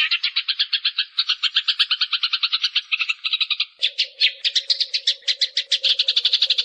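Eurasian tree sparrow chirping in a fast, tight, unbroken series of short chirps, about ten a second. A faint steady low hum comes in about four seconds in.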